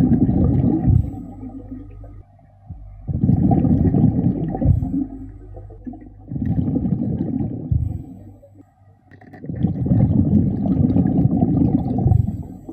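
Underwater, a diver breathing through a regulator: four loud rumbling bursts of exhaled bubbles, about one every three seconds, with quieter inhalations between.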